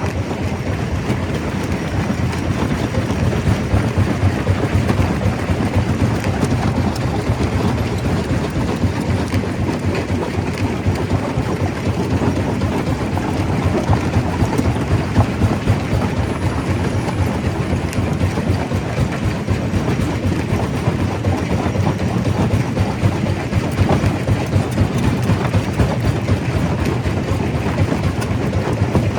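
Stone crusher running, a steady heavy rumble under a dense, continuous rattle of rock being broken and tumbling through the machine.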